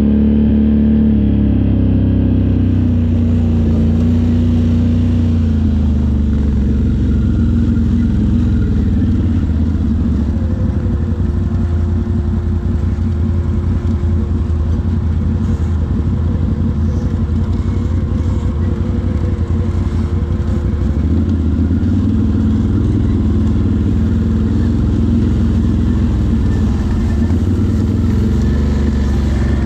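ATV engine running continuously while riding, its note falling and rising with the throttle and rising again near the end.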